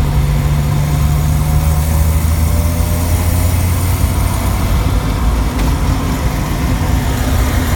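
1993 Jeep Wrangler YJ running, a steady low engine hum.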